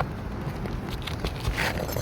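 Scattered clicks and a brief scratchy scrape from an old, brittle asphalt 3-tab shingle being worked loose from under the ridge cap, over a steady low rumble.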